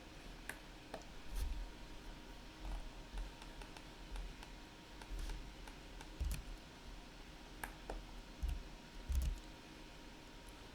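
Scattered computer keyboard keystrokes and mouse clicks, irregular and a few at a time, with several dull low knocks among them.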